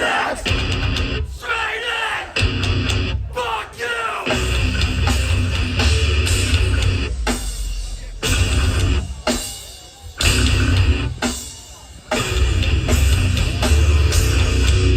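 Live hardcore band playing loud distorted guitars, bass and drums in a stop-start section, the low end cutting out in several short breaks before the full band comes back in. Shouted vocals come through in the first few seconds.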